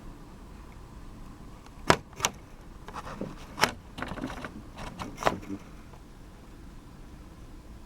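A run of sharp clicks and knocks, about half a dozen over three or four seconds, the loudest near the start, over a faint steady low background.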